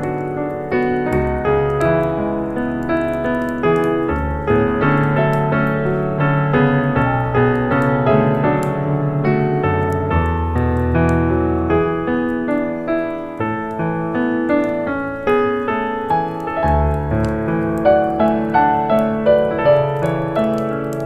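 Background piano music: a steady flow of notes over held low bass notes.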